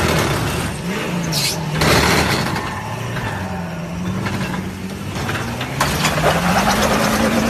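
Truck engine revving, its pitch rising and falling several times.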